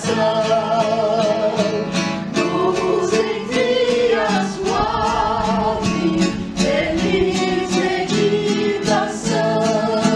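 Acoustic guitar strummed in a steady rhythm, with a singing voice carrying a melody over it.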